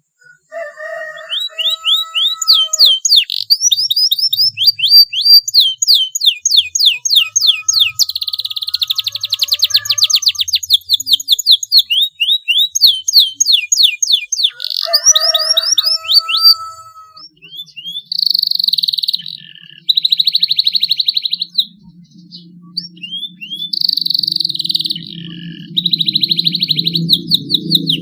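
Young domestic canary singing: quick runs of sweeping, chirping notes broken by fast buzzing trills (rolls), in phrases with short pauses. It is a juvenile still learning its song, beginning to hold longer rolls. A low rumble comes in under the song near the end.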